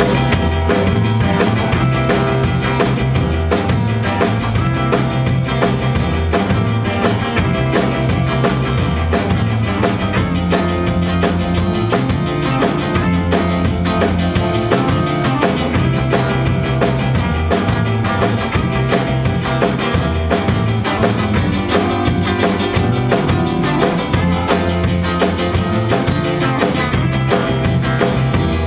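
A rock band playing an instrumental passage with drum kit, electric guitar and a bass line.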